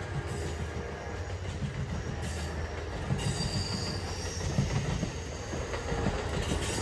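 Amtrak passenger train rolling past, steel wheels rumbling on the rails, with a brief high wheel squeal about three seconds in.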